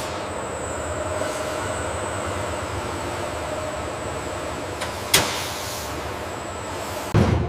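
Steady machinery running noise with a faint high whine, broken by a sharp click about five seconds in and a heavier thud near the end.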